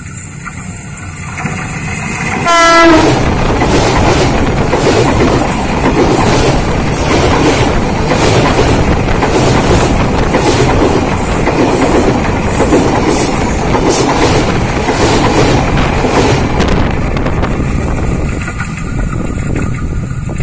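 A Tokyu 8000-series electric commuter train sounds a short horn blast about three seconds in, then passes directly over the rails right at the recorder. Its wheels make a loud rolling rumble and clatter over the track, with rapid clicks, and it fades away near the end.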